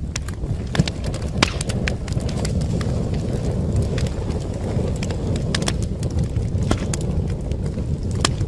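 Wood fire burning in a fireplace: irregular sharp crackles and pops over a steady low rumble of the flames, with two louder pops about a second and a second and a half in.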